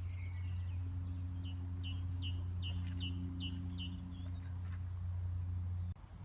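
A songbird singing a run of about nine quick, repeated falling notes, over a steady low hum that cuts off suddenly near the end.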